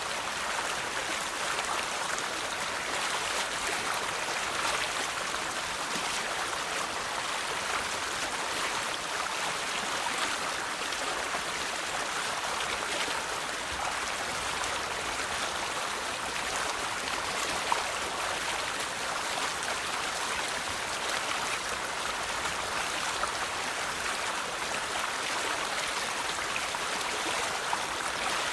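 River water flowing steadily over rocks, an even rushing babble with small splashes now and then.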